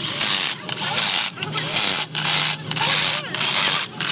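Rhythmic scraping strokes of a hand tool on the metal of a truck cylinder head, about three strokes every two seconds, each a short rasping burst.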